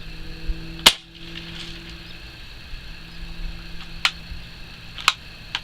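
A 760 Pump Master multi-pump air rifle fires a BB about a second in, a single sharp crack. A few lighter clicks follow later, over a faint steady hum.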